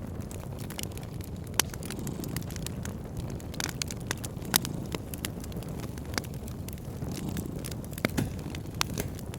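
Wood fire crackling in a fireplace: scattered sharp pops and snaps over a steady low rumble, with the loudest pops about a second and a half and four and a half seconds in.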